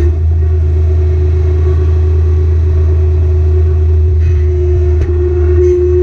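Kubota BX Series compact tractor's three-cylinder diesel engine running steadily under work, a deep hum with a steady whine over it.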